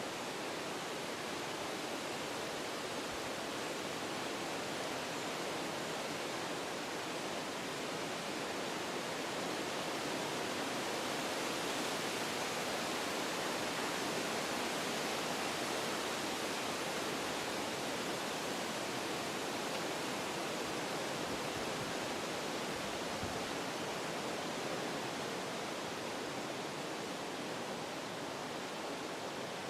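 Wind rushing through forest trees, a steady noise that swells a little in the middle and eases slightly near the end.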